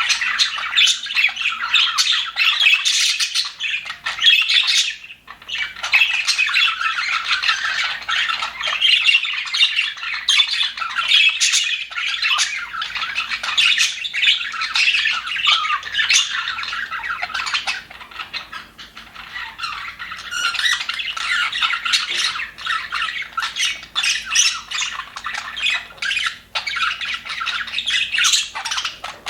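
A flock of budgerigars chattering and warbling, many chirps and squawks overlapping, with a brief lull about five seconds in.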